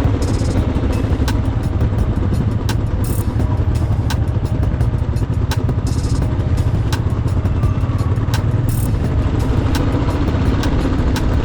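Motorcycle under way at a steady speed: a steady low engine drone with road and wind noise, and a faint tick about every two-thirds of a second.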